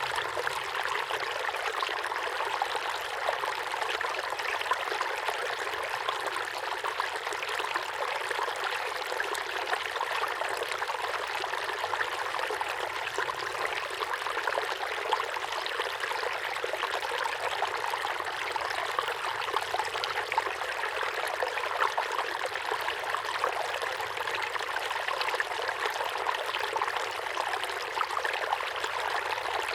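Small waterfall pouring steadily into a pond: an even, continuous splashing rush with a light trickle on top.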